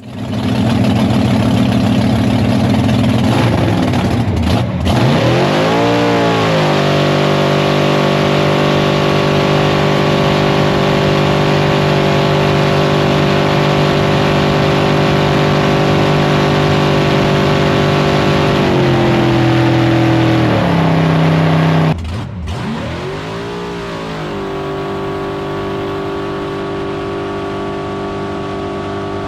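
A 582 cubic-inch big block Chevy V8 in a jet drag boat running hard on a test pass. Its pitch dips and climbs back about five seconds in, then holds steady. It steps down twice near the three-quarter mark, cuts off sharply, then climbs again and holds. The engine is held to about 6,000 rpm by an A impeller, below the roughly 7,500 rpm where it makes power.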